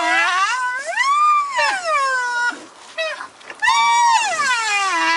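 White rhinoceros giving two long, high-pitched whining calls, each rising and then falling in pitch, with a couple of short squeaks between them.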